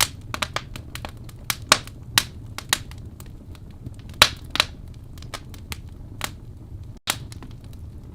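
Wood fire burning in a fireplace, crackling with sharp, irregular pops over a steady low rumble of the flames. The sound cuts out for an instant about seven seconds in.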